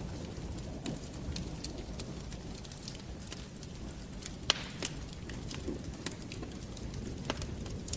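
Wood fire crackling in a fireplace: a low steady rumble of the flames with scattered small crackles, and one loud pop about halfway through.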